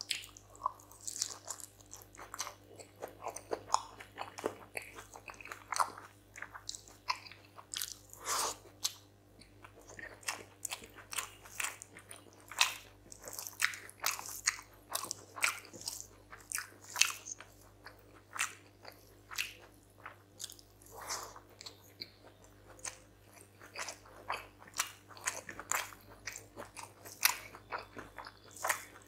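A person chewing and eating rice, chicken curry and egg close to the microphone: irregular wet mouth smacks, clicks and bites, one after another.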